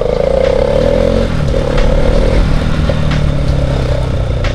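Bajaj Pulsar NS200's single-cylinder engine running through a loud aftermarket exhaust while riding, its note climbing about a second in as it accelerates.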